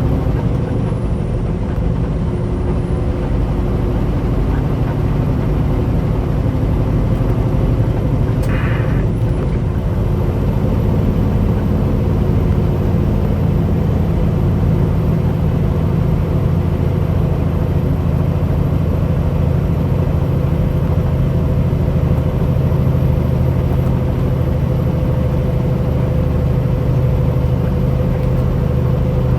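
Heavy truck's diesel engine running steadily while driving, with a brief higher-pitched sound about eight seconds in.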